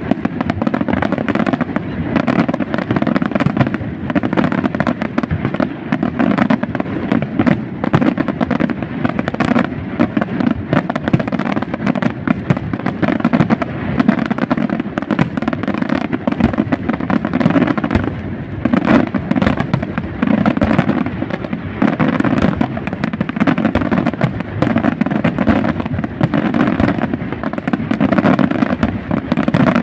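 Aerial fireworks display going off in a dense, continuous barrage of bangs and crackles, with no pauses between shots.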